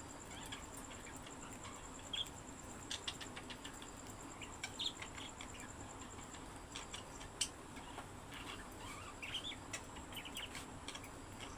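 Pet budgerigars chirping and chattering in short, scattered calls, mixed with sharp little clicks. A faint steady high-pitched whine sits in the background.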